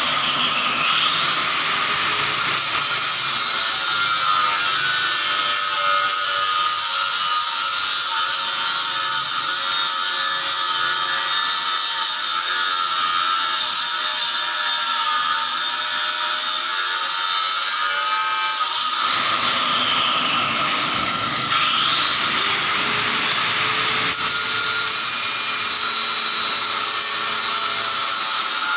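A handheld power tool running steadily with a high whine. Its pitch dips and recovers just after the start and again about two-thirds of the way through.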